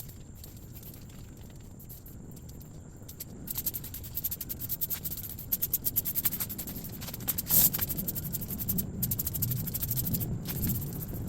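Trigger spray bottle spritzing rigidizer onto ceramic fiber insulation in a rapid run of short hissy sprays. They start about three and a half seconds in, and the loudest burst comes just past halfway.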